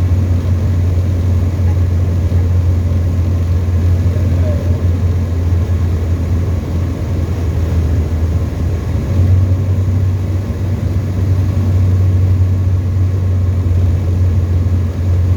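Tecnam ultralight's piston engine and propeller droning steadily in flight, heard from inside the cockpit as a loud, even hum.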